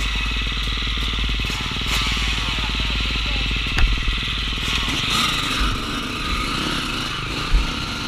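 Dirt bike engine running as it is ridden on a trail, its pitch rising and falling with the throttle, with two sharp knocks, about four and seven and a half seconds in.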